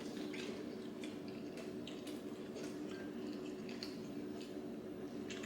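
Eating sounds at a meal: scattered soft clicks and smacks of chewing and of food and utensils being handled, over a steady low hum.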